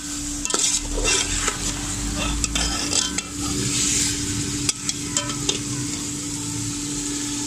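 Chicken pieces frying in oil and masala in a steel pot, sizzling steadily while a metal spatula stirs and scrapes them, with scattered clicks of the spatula against the pot. This is the bhuna stage, the meat being fried well to cook through. The clicks thin out after about five and a half seconds, leaving the sizzle.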